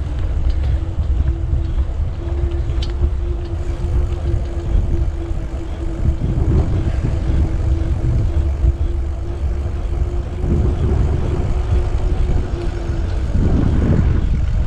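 Wind rumbling on a bike-mounted microphone while cycling, with a steady droning hum that fades out near the end.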